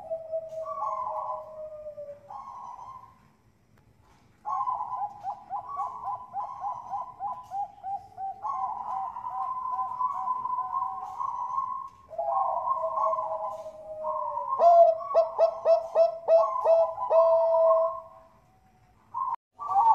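Zebra doves of the Thai-bred 'perkutut bangkok' type cooing in long rolling phrases. Quick runs of short notes merge into longer, mellow coos, with two short pauses, one a few seconds in and one near the end.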